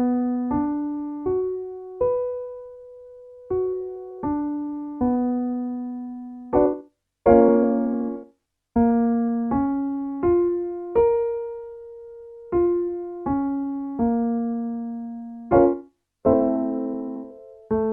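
Piano playing a minor arpeggio for a vocal warmup: root, minor third, fifth and octave rising, with the top note held, then stepping back down, followed by two chord strikes that move to the next key. The pattern repeats, each round a little lower in pitch.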